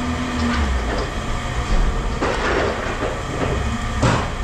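Machinery running with a steady low rumble under rattling clatter, and one sharp knock near the end.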